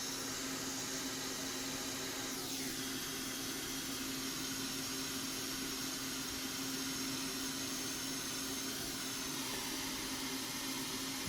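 Hot air rework station blowing steadily, a constant airy hiss with a low hum under it, heating the board to loosen stubborn flux. A faint falling sweep in pitch comes about two seconds in.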